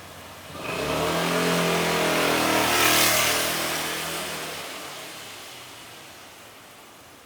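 A car passing close by on a snowy street: its engine note and tyre hiss swell to a peak about three seconds in, then fade away over several seconds.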